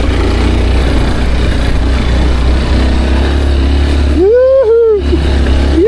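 Wind buffeting the microphone: a loud, steady low rumble with a rushing hiss above it. About four seconds in, a man's voice calls out briefly, rising and then falling.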